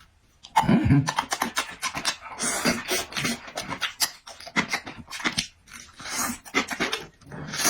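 Close-miked chewing and lip-smacking of a person eating, a rapid string of wet mouth clicks, with a short voiced hum about a second in.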